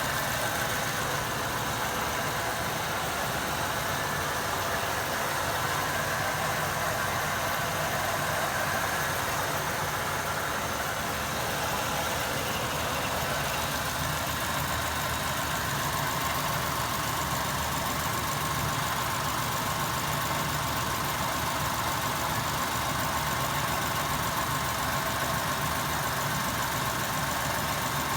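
1994 Cadillac Fleetwood Brougham's LT1 5.7-litre V8 idling steadily.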